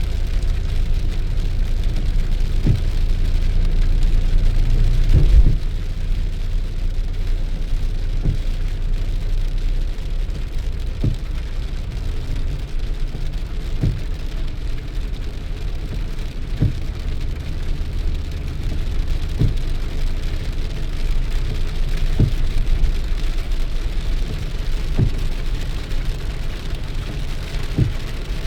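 Steady rain with a strong low rumble, louder for the first five seconds or so. Through it runs a short soft knock, regular at about one every three seconds.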